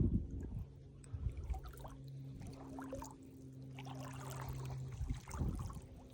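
Water trickling and sloshing around the legs of someone wading through shallow swamp water, with small splashes and a faint steady low hum from about a second in until near the end.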